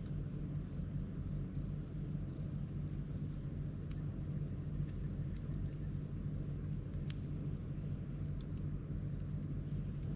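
Campfire crackling, with a few sharp pops, over a steady low rumble. Insects chirp in an even pulse about twice a second.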